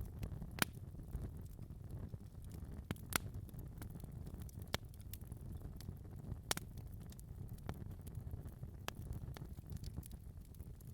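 Wood fire burning in a fireplace: a low steady rumble of flames with irregular sharp crackles and pops scattered through.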